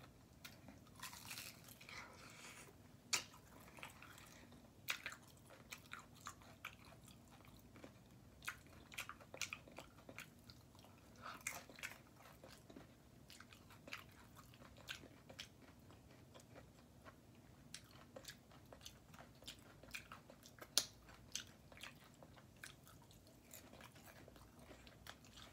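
Close-miked chewing and biting on tacos, with irregular crunches and wet mouth clicks scattered throughout.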